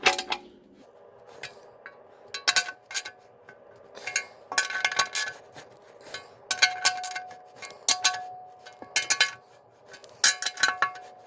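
Hand tools and small metal engine parts clinking and clicking in short bursts, with brief metallic ringing.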